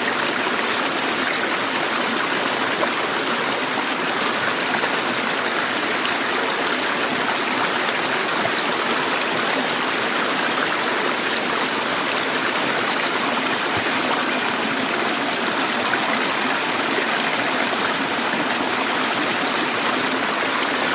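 River water running, a steady, even rush with no changes.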